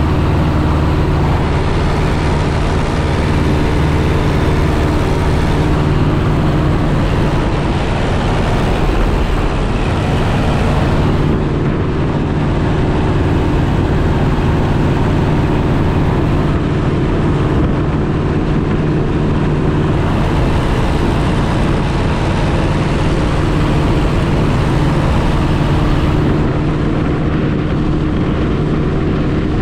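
Piper J-3 Cub's engine and propeller running steadily, heard from inside the cockpit as an even, unchanging drone.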